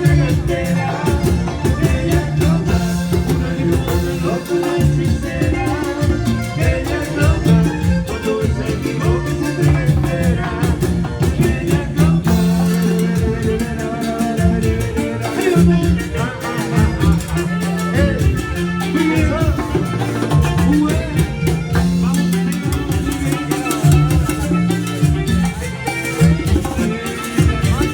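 A band playing music with a driving beat of drums and percussion over a heavy bass line.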